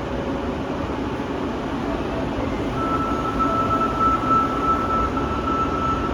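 Osaka Metro Midosuji Line subway train running along the platform, a steady rumble of wheels and running gear. A thin, steady high whine joins in about three seconds in.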